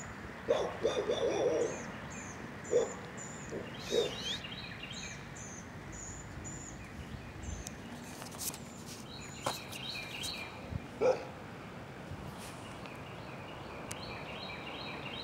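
Small birds chirping in short, repeated high notes, in runs through the first half and again about ten seconds in, over steady outdoor background noise. A few short, louder, duller sounds break in near the start and around eleven seconds.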